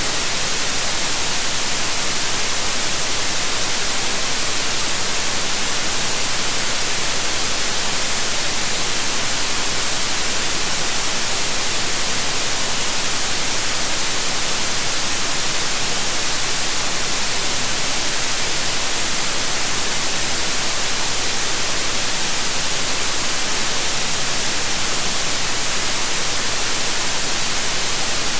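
Steady synthetic white noise: an even, unchanging hiss spread across all pitches, strongest in the highs.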